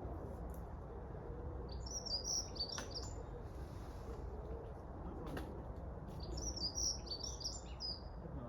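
Songbird chirping in two bursts of rapid high chirps, about two seconds in and again near the end, over a steady low background rumble, with two sharp clicks in between.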